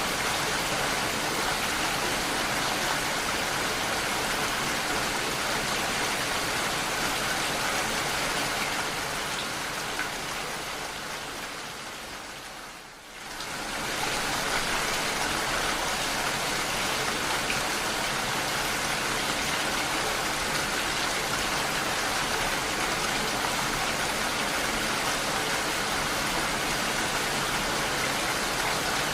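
Steady rain falling, an even hiss of drops. It fades down about a third of the way in, nearly drops out for a moment, then comes straight back to its steady level.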